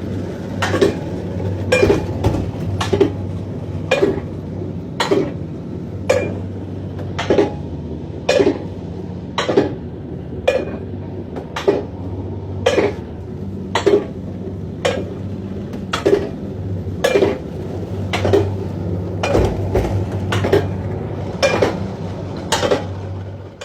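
Sharp clanking knocks repeating evenly about once a second over a steady low hum.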